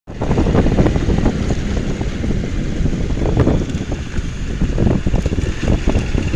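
Wind buffeting the microphone: a loud, irregular low rumble that rises and falls in gusts.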